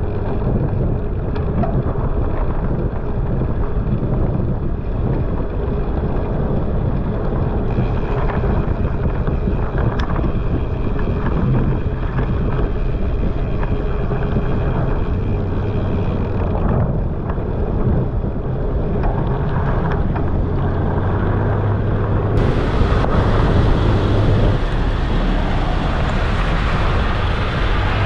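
Wind buffeting the microphone, mixed with a truck's engine running and passing; its low drone grows stronger from about halfway through.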